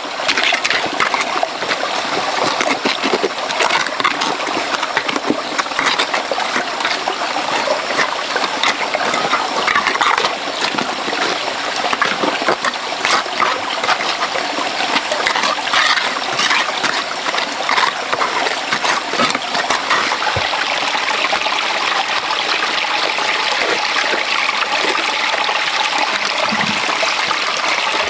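Running water: a steady rushing flow with frequent small splashes and spatters.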